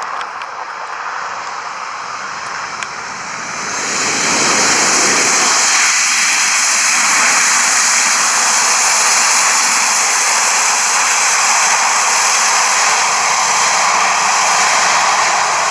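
Airliner's engines during its landing: a steady rush that swells sharply about four seconds in and stays loud.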